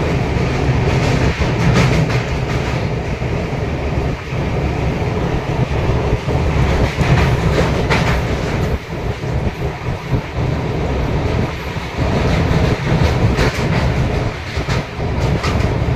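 Amrit Bharat Express passenger train running along the track: a steady heavy rumble of wheels on rails, with irregular clicks and knocks of clickety-clack over rail joints.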